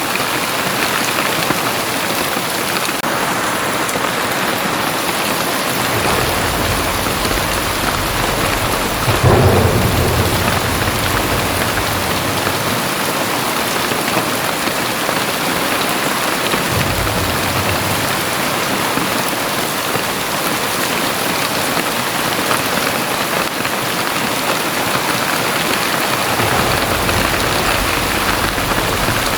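Very heavy rain pouring steadily, with low rumbles of thunder rolling in several times; the loudest starts suddenly about nine seconds in.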